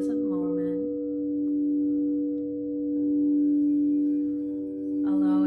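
Crystal singing bowl ringing with a steady, sustained tone of several pitches, its loudness slowly swelling and easing.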